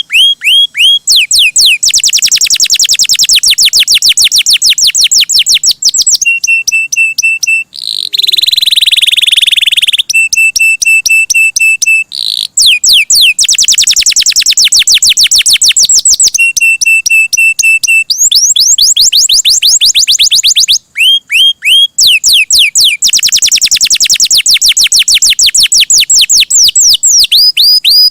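Domestic canary singing loudly and continuously. Its song is a string of rapid trills, each a fast run of one repeated note, changing every few seconds between quick sweeping rolls and steady whistled notes, with a buzzy stretch about eight seconds in.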